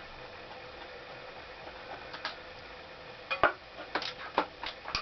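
Metal tools and engine parts clicking and knocking as a motorcycle engine is taken apart: a couple of light clicks about two seconds in, then a quick run of sharper knocks and clinks in the last two seconds.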